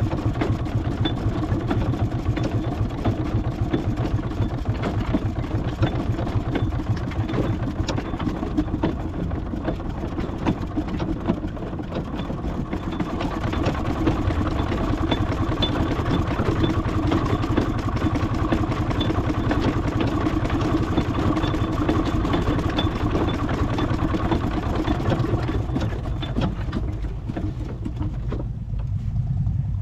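A large engine running steadily, with a fast low pulse and a light regular ticking; the sound thins out near the end.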